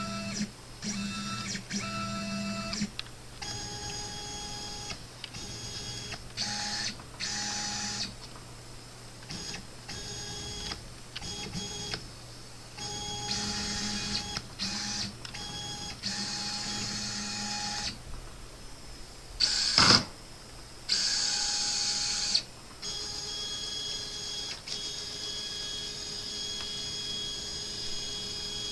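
Nema 23 stepper motors of a home-built CNC machine driving the axes in a series of short moves, each move a steady whine that starts, stops and changes pitch with the next. With the new drivers they run without the rattling noise they made before. One sharp click about two-thirds of the way in.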